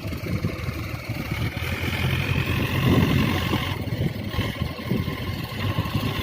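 Diesel tractor engine running steadily, its level swelling a little about halfway through.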